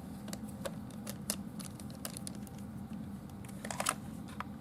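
Small irregular clicks and taps of a screwdriver turning a screw out of a plastic toy tank's battery cover, with a quick cluster of clicks near the end, over a low steady hum.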